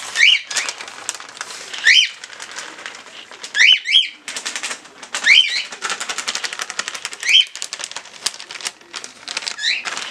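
A bird chirping: short rising calls, often two in quick succession, repeating every second or two. Between them runs a rapid clatter of clicks, thickest in the middle of the stretch.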